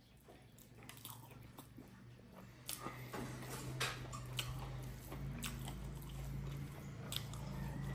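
A person chewing and biting fried pork and rice close to the microphone, with wet mouth clicks and smacks that grow louder about three seconds in, over a low steady hum.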